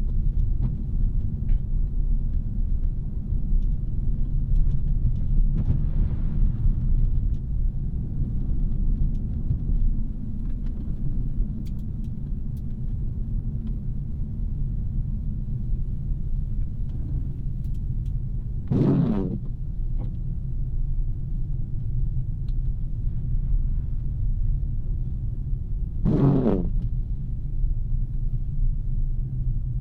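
Steady low driving rumble of a 2017 Audi A3 with its 2.0-litre turbo four-cylinder, engine and road noise together at a constant pace. Twice in the second half a brief pitched sound cuts in for about half a second.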